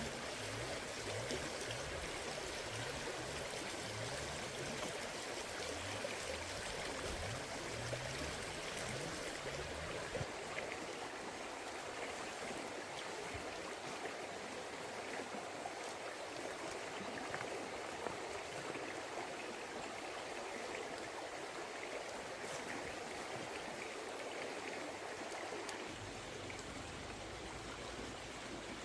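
Forest stream flowing: a steady rush and babble of running water, with some low rumbling during the first third.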